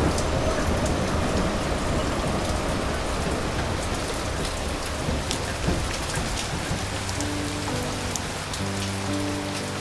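Steady rain falling, with scattered sharp drop ticks; soft held music notes come in about seven seconds in.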